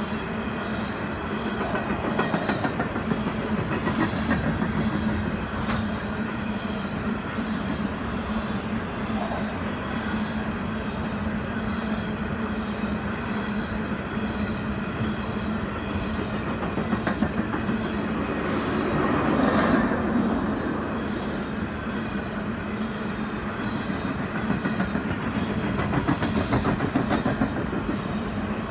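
Canadian Pacific freight train rolling past: wheels clacking rhythmically over the rails with a steady low hum, swelling once about two-thirds of the way through.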